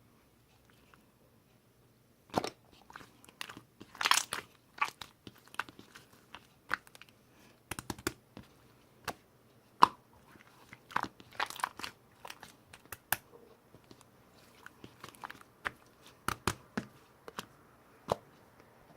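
Irregular crunching and sharp clicking sounds, close up in a small room, starting about two seconds in and going on in uneven bursts.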